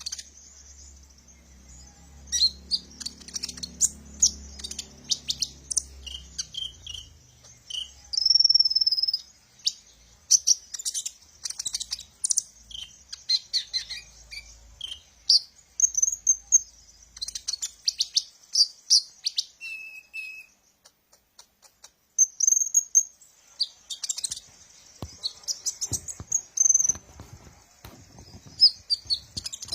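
Kolibri ninja sunbird singing: rapid, high, thin chirps and short twittering trills in quick runs, with a brief pause about two-thirds of the way in.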